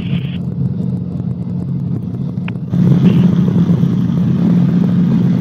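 Cabri G2 helicopter's rotor and piston engine heard through the headset intercom as a steady low drone. About two and a half seconds in there is a short click, and the sound then gets louder and brighter.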